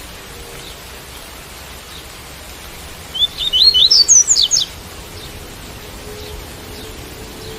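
Double-collared seedeater (coleiro) singing one quick phrase of the tui-tui song type: a run of about a dozen rapid, high, rising notes lasting about a second and a half, starting about three seconds in. A steady hiss of rain runs underneath.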